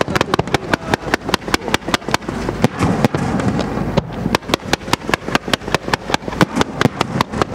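Fireworks display firing in rapid succession: several sharp bangs a second from shots launching one after another, thinning out briefly about three seconds in before the rapid firing resumes.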